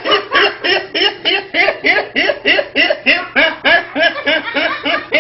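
A person laughing: a long, even run of short "ha" bursts, about three or four a second, without a break.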